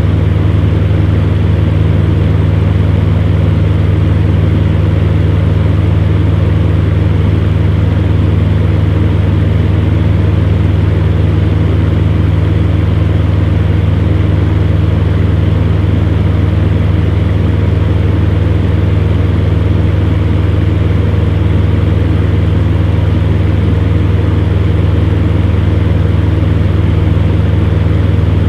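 Electric fan running steadily: a strong, even low hum with a constant rush of air over it.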